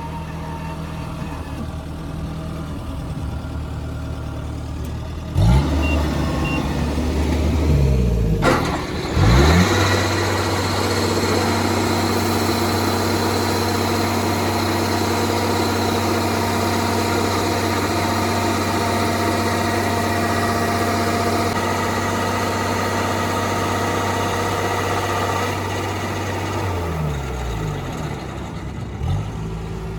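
Heavy farm diesel engine idling, revving up sharply twice, about five and nine seconds in, then holding high revs for about fifteen seconds before revving back down near the end.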